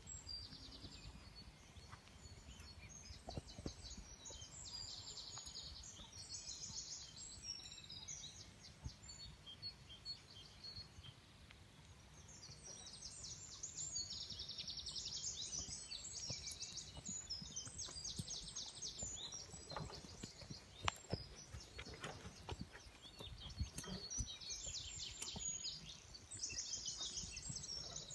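Small birds singing: repeated short, fast-trilled phrases, on and off throughout, over a low steady rumble, with a few faint knocks about two-thirds of the way through.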